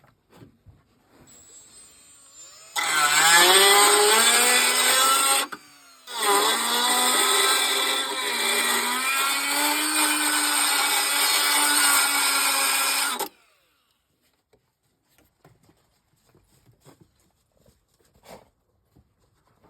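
A small electric motor, most likely a handheld power tool, spinning up with a rising whine, stopping briefly about halfway, then spinning up again and running steadily for about seven seconds before cutting off.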